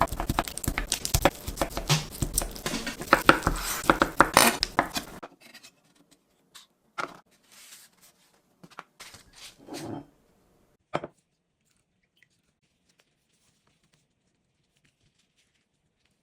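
Close-up food-preparation handling sounds: a dense run of crackling and rustling for about five seconds, then a few scattered knocks and taps.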